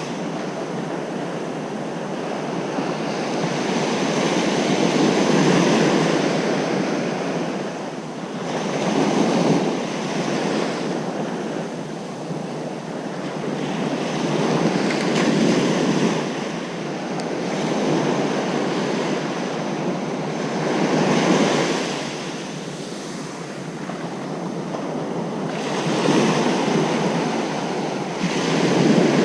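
Ocean surf breaking on a beach, a steady wash of noise that swells with each incoming wave every few seconds. Some wind on the microphone.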